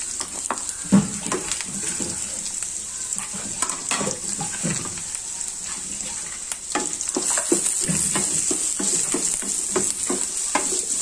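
Chopped onions, green chillies and crushed garlic sizzling in hot oil in a steel pan: a steady high hiss, with frequent scrapes and taps as the pan's contents are stirred.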